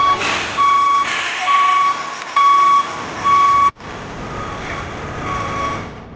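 A truck's reversing alarm beeping about once a second, a steady single-pitched beep, over the noise of the vehicle. Two-thirds of the way in the sound cuts off sharply, then the beeps go on more faintly.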